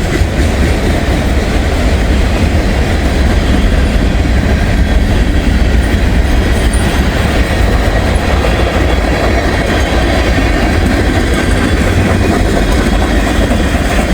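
Freight train cars rolling past at close range: a loud, steady rumble of wheels on the rails.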